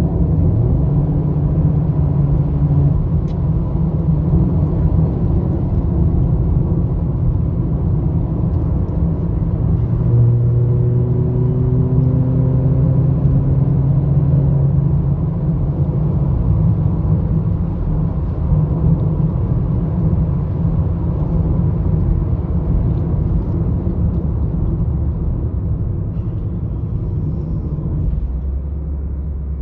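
Volkswagen Jetta 1.4 TSI turbocharged four-cylinder engine and road noise heard from inside the moving car's cabin, a steady drone. Around a third of the way in, the engine note climbs for several seconds under acceleration; near the end it settles to a lower tone.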